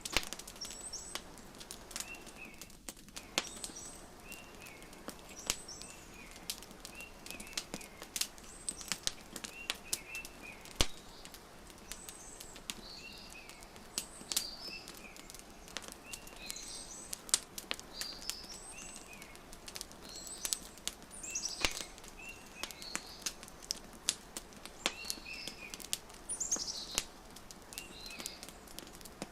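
Wood fire crackling with frequent sharp pops over a steady hiss, while small birds chirp in short repeated calls throughout.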